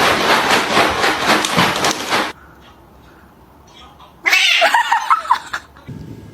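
Loud rough noise that cuts off abruptly about two seconds in, then after a short quiet pause a cat yowls loudly for about a second and a half, with a wavering pitch.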